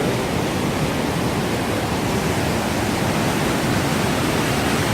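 Steady rushing noise that holds even throughout, heaviest in the low end, with no distinct events.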